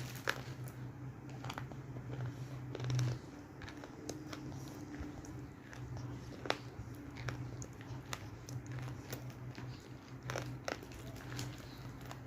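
Roasted multani mitti (fuller's earth clay) being bitten and chewed close to the microphone: irregular sharp crunches over a steady low hum.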